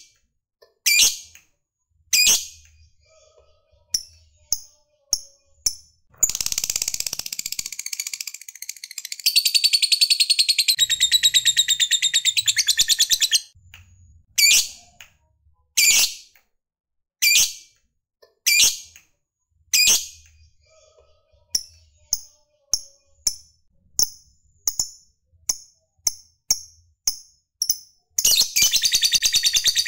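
Lovebird calling: loud, sharp single shrieks about a second apart, broken by a long, fast, chattering trill (the 'ngekek') from about six to thirteen seconds in. The trill starts again near the end.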